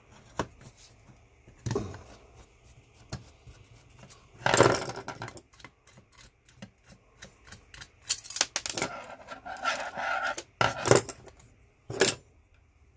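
Small metal parts and hand tools being handled on a work table while a massager is taken apart: scattered clicks and clinks, a longer scrape about four and a half seconds in, more scraping with a faint ringing between about eight and ten seconds, and two sharp knocks near the end.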